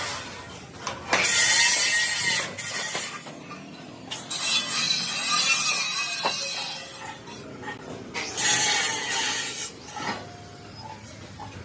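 Metalworking noise at a truck body workshop: three long bursts of rasping, scraping noise, with a few sharp knocks in between.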